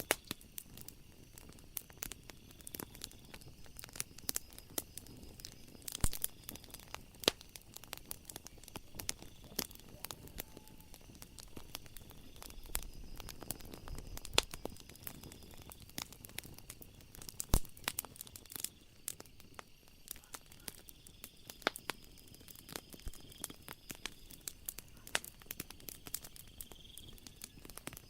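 Wood fire crackling, with irregular sharp pops and snaps, a few of them much louder than the rest. Faint steady high-pitched tones sound underneath.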